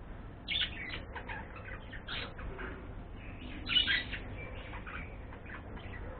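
A bird calling in a quick series of short chirps and squawks, two of them louder: one about half a second in, one near four seconds in.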